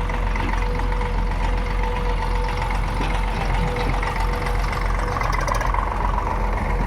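Heavy diesel engine of a backhoe loader or tractor running steadily, with a constant high whine over the low rumble.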